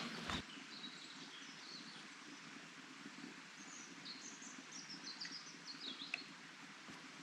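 Small songbird singing in woodland: scattered high chirps, then a quick run of chirps about four to six seconds in, over faint steady outdoor background. A footstep or two is heard in the first half second.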